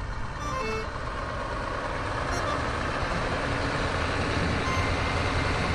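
Steady truck-engine rumble and hiss, growing slightly louder, with a few short beeping tones about half a second in.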